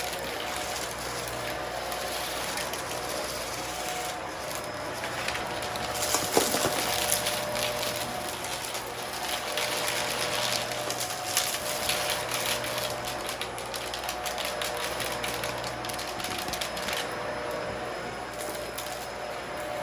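Bissell upright vacuum cleaner running steadily, with crackling as dry debris is sucked up, heaviest about six seconds in.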